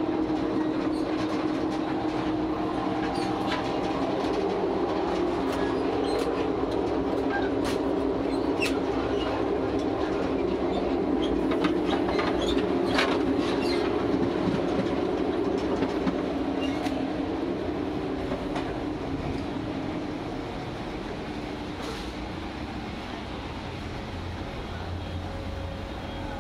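Alaska Railroad passenger train running, heard from inside the cars and the gangway between them. A steady rumble of wheels on the rails with rattling and scattered clicks, loudest in the middle and dropping in level about twenty seconds in.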